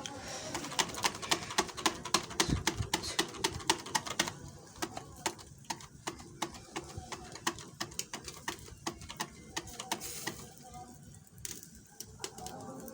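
Chicken on a charcoal grill crackling and popping: a quick run of irregular sharp pops, dense at first and thinning out after about four seconds.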